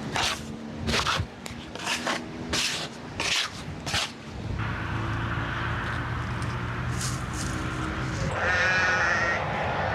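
Bleating livestock, with one long wavering bleat near the end, after a run of short, regular strokes in the first four seconds.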